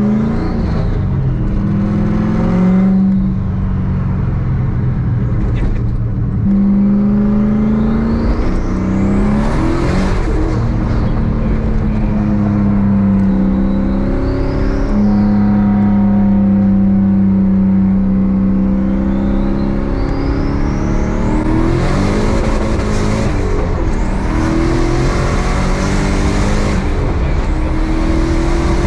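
Turbocharged Chevrolet Camaro's engine heard from inside the cabin, pulling hard and easing off through the gears. A high whistle climbs and falls away several times as boost builds and drops.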